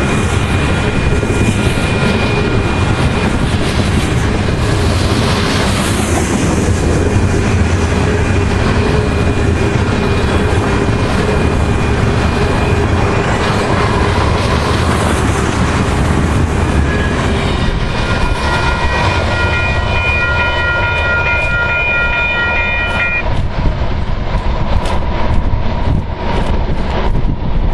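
Freight cars of a Canadian Pacific train rolling past, a loud steady rumble with wheels clacking over the rail joints. High squealing tones from the wheels come in at the start and again for several seconds past the middle. Wind buffets the microphone near the end.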